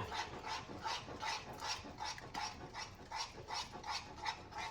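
A spoon stirring thick cheese sauce in a pot on the stove, a steady rhythm of about three to four wet scraping strokes a second.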